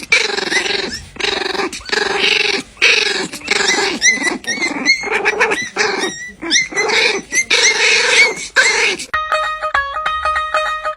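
A dog growling and snarling in repeated rough bursts, with a few short high squeaks. It stops about nine seconds in, and plucked guitar music starts.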